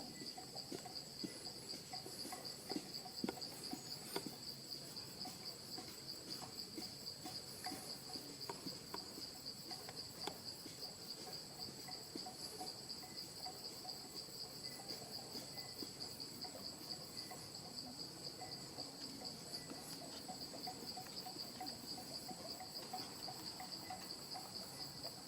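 Steady high-pitched chorus of forest insects, with faint scattered rustling and clicks underneath.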